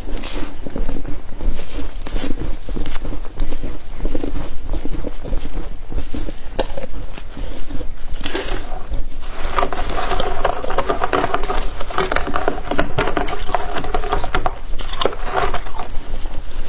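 Close-up crunching and chewing of flaky freezer frost in the mouth: a dense run of small crisp crackles and bites.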